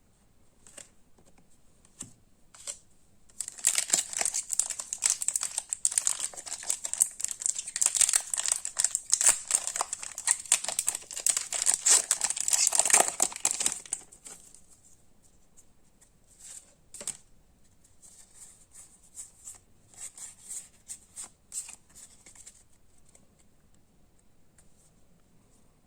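Foil wrapper of a Pokémon card booster pack being torn open and crinkled for about ten seconds, then quieter flicks of trading cards being handled.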